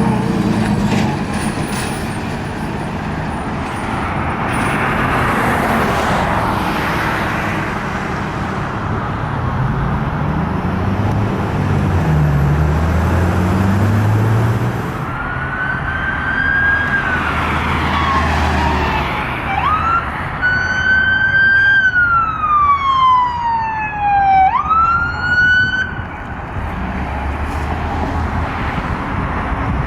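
An emergency vehicle passing with its siren wailing. A low engine and road rumble comes first, then about halfway through the siren tone falls slowly and sweeps quickly back up, several times, and stops a few seconds before the end.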